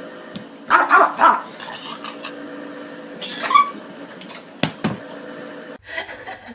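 Dog barking: three quick barks about a second in, then another a couple of seconds later.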